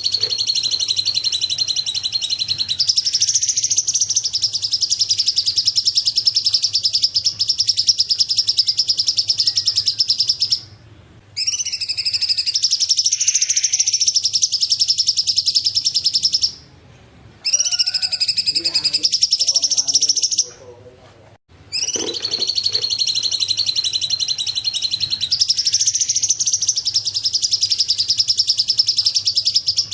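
Small songbirds chattering and trilling in fast, high-pitched runs, a continuous dense stream broken by three short pauses.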